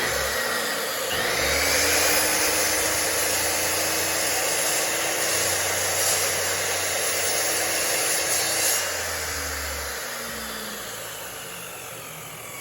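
Electric chop saw running at speed, its blade cutting a slot into a wooden board. About nine seconds in the saw is switched off and the blade winds down with a falling whine.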